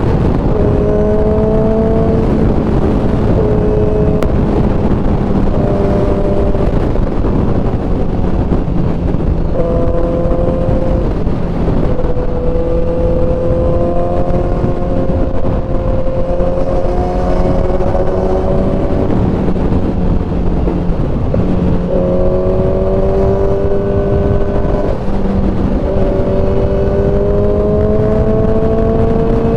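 Kawasaki ZX-10R inline-four sport bike engine running under way, its note gliding up and down with several changes in pitch as the throttle and gears change, under heavy wind rush.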